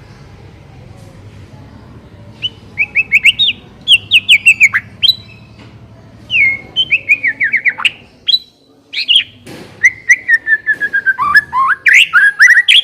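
White-rumped shama (murai batu) singing. After about two and a half seconds of low hum, it gives runs of rapid whistled phrases made of quick, falling notes, with a faster stuttering series near the end.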